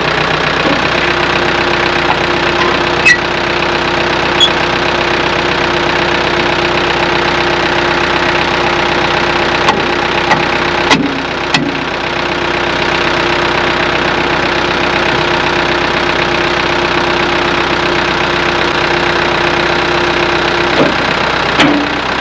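Branson compact tractor's diesel engine running steadily, with a steady whine held for most of the time and a few sharp clicks and knocks along the way.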